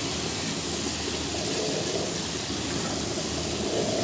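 Ginger and garlic paste frying with whole spices in hot oil and butter in a kadai: a steady sizzle.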